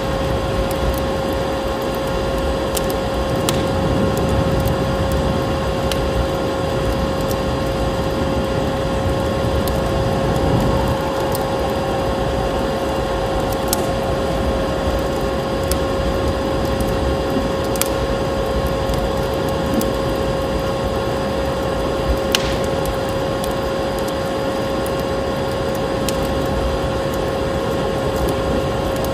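Steady vacuum cleaner motor running with a constant whine, over a windy rushing noise, with scattered sharp crackles of a wood fire.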